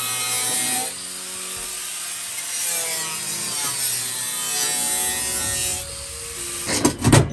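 Angle grinder cutting through a steel subframe connector: a continuous high-pitched grinding whine whose pitch wavers as the wheel bites into the metal, easing off about six seconds in. A few loud knocks follow near the end.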